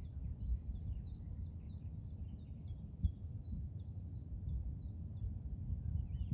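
A songbird singing a run of short, high notes, each sliding downward, about two a second, stopping shortly before the end. Under it, a low, uneven outdoor rumble.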